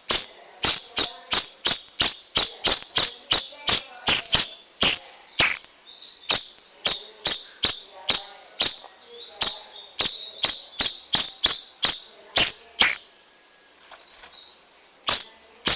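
A songbird calling a fast series of sharp, high chirps, about two a second, with a short break near the end.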